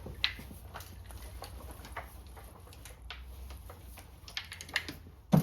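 A Homelite C5 chainsaw's fuel tank being sloshed by hand to rinse it out, heard as scattered light clicks and taps over a low steady hum.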